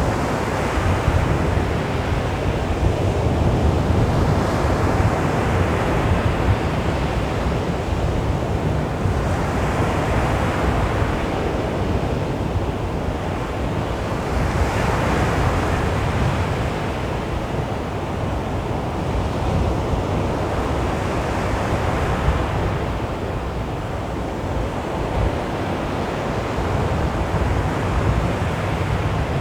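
Sea waves breaking gently on a beach, a continuous wash of surf that swells and recedes every few seconds, with a steady low rumble underneath.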